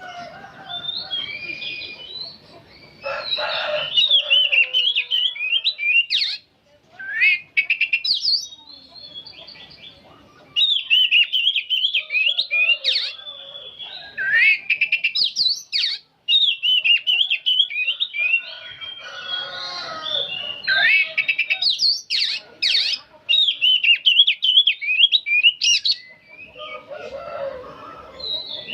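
Oriental magpie-robin singing a long, rapid chattering song of varied high notes, with a couple of brief pauses.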